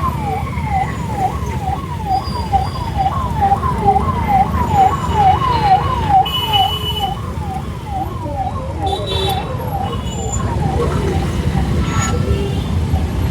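An emergency vehicle's siren cycling fast, about two sweeps a second, fading away about ten seconds in, over a steady low wind and road rumble.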